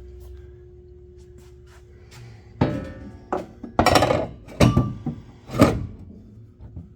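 Metal sub-frame connector clanking and knocking against the car's underside as it is lifted and set into place: about five sharp knocks, some ringing briefly, starting about two and a half seconds in.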